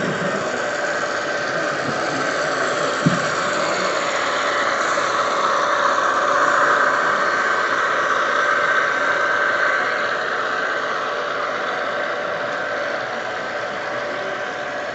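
Model train running past, a steady engine-like hum and whine that swells in the middle and eases off toward the end, with one sharp click about three seconds in.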